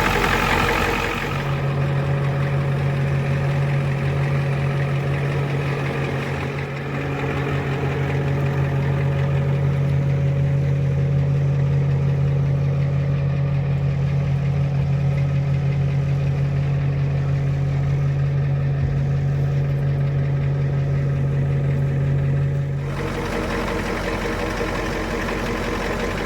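1990 Ford F350 dump truck's engine idling steadily. A strong, steady low drone joins about a second in and cuts off about 23 seconds in, leaving the idle alone again.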